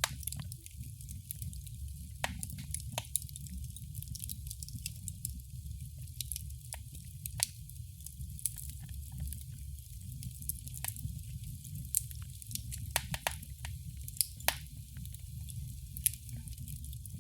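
Wood fire crackling in a fireplace: a steady low rumble of the flames under irregular snaps and pops, a handful of them louder than the rest.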